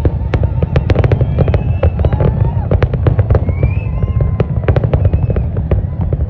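Fireworks display: a dense, irregular crackle of many sharp bangs over a continuous low rumble.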